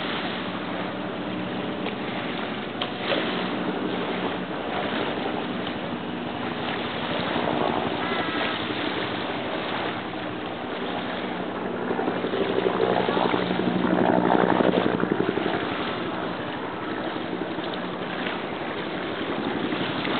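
A steady engine hum with wind or water noise, swelling a little past the middle, and a few short chirps about eight seconds in.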